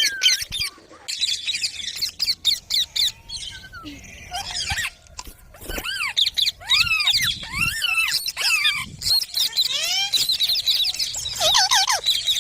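Rose-ringed parakeets (Indian ringnecks) chattering: quick high chirps and many short arched squawks that rise and fall in pitch, overlapping one another throughout.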